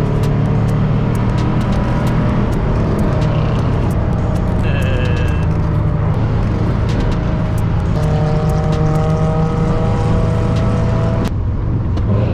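Car driving, heard from inside: a steady low engine drone with road noise and scattered small clicks, and a brief higher tone about five seconds in.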